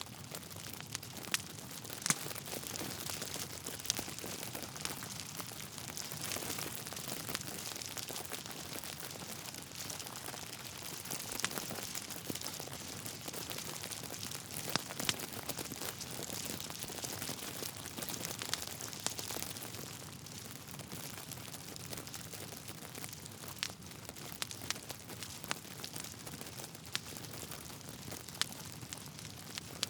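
Wood fire burning in a fireplace: a steady hiss of flames with irregular crackles and sharp pops from the burning logs, a few louder pops among them.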